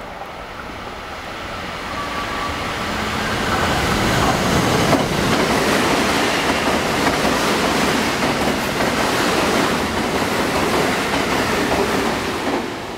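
A JR West Special Rapid electric multiple unit passing through the station at speed without stopping. The noise of its wheels on the rails builds over the first few seconds, stays loud, then falls away suddenly near the end as the last car goes by.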